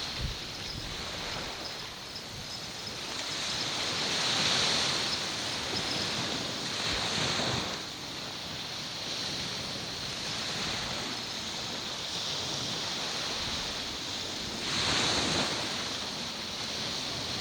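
Sea waves washing against the shore with wind on the microphone, the wash swelling louder three times.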